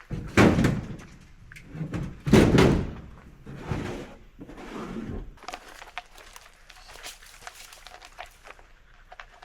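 Two heavy thumps, about two seconds apart, then softer knocks and small clicks and rustling of something being handled.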